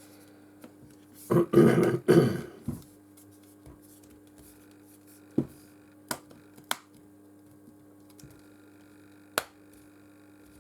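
Small phone parts being handled and pressed back into place on the bench, giving four separate sharp clicks in the second half. Before them, about a second and a half in, comes a loud rough burst in three quick pulses. A steady low hum runs underneath.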